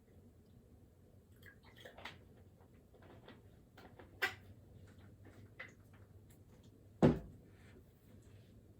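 Small handling noises at a study desk: scattered light clicks and taps, a sharper knock about four seconds in, and a heavier thump about seven seconds in.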